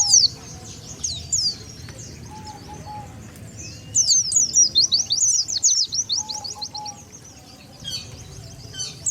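White-eye (pleci) song: runs of rapid, high, down-slurred twittering notes. A short run comes at the very start, a longer one from about four to seven and a half seconds in, and another near the end, with quieter stretches between.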